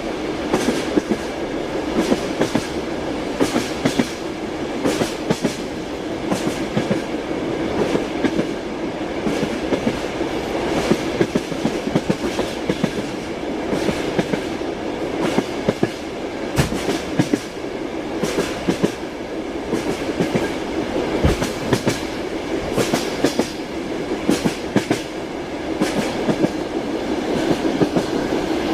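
Passenger train wheels clacking over rail joints, heard from inside a sleeping compartment: a steady rumble with sharp knocks scattered throughout.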